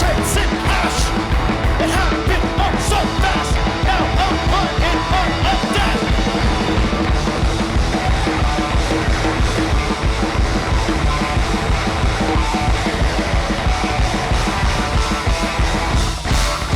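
Live punk-rock band playing loud and fast, with dense drums and distorted guitars, and yelled or shouted vocals in the first few seconds. Near the end the band drops out briefly, then guitar comes back in.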